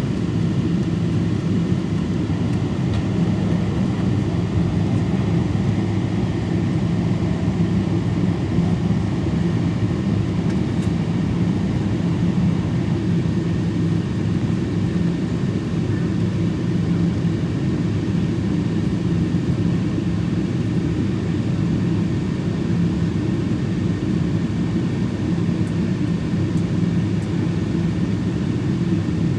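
Boeing 777 cabin noise heard from inside: a steady, unchanging low drone of jet engines and airflow.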